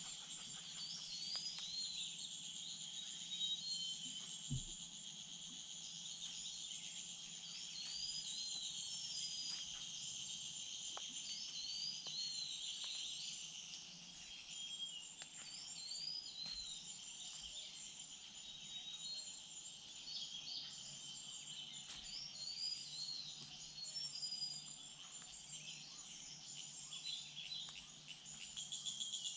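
A steady chorus of insects with a constant high buzz. Over it, small birds repeat short, high chirping notes.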